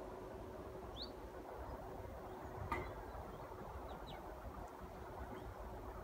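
A few short, high small-bird chirps that rise in pitch, one about a second in and a pair about four seconds in, over a steady low rumble and a faint steady hum. There is a single sharp click a little before the three-second mark.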